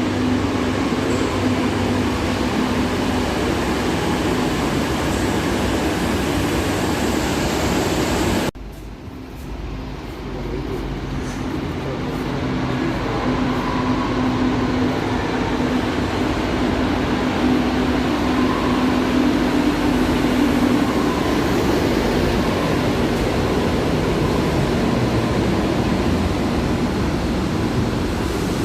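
Madrid Metro train running, a dense rumble with a steady electric motor hum. About eight seconds in the sound cuts off abruptly, then the train noise swells back up over a few seconds and carries on steadily.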